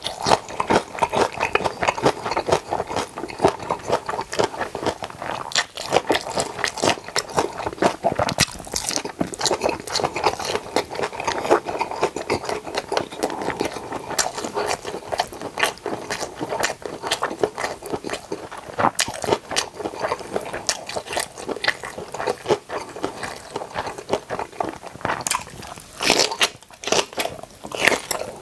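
Close-miked chewing of napa cabbage kimchi: a continuous run of wet, crisp crunches and mouth sounds as the cabbage is bitten and chewed.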